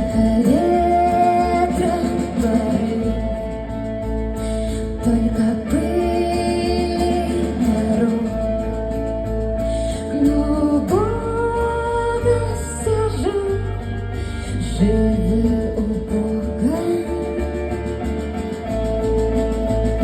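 Live band music: guitars and bass playing under a slow melody of long, held, gliding notes.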